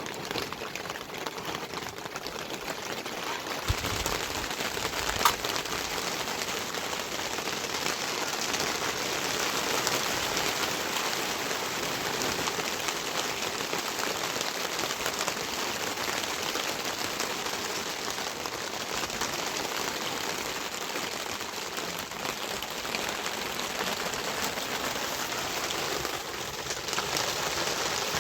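Heavy rain falling steadily, a dense even patter on surfaces. A couple of short knocks come about four and five seconds in.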